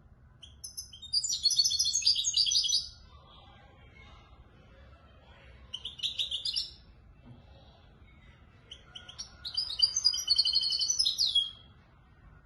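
Caged European goldfinch singing three phrases of rapid, twittering high notes in the Moroccan 'Marrakchi' song style. The first and last phrases are long and the middle one is short.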